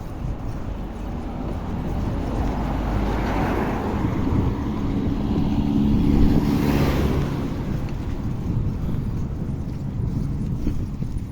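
Road traffic passing: a vehicle's engine and tyre noise swells and fades, loudest about six to seven seconds in, over a steady low rumble.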